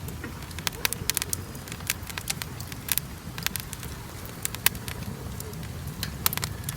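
Wood fire in a fire pit crackling, with irregular sharp pops and snaps over a steady low rumble.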